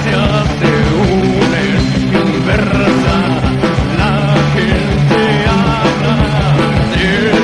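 Heavy metal band playing live: distorted guitars and bass holding low chords under fast, dense drum hits, with a melodic line bending up and down above them.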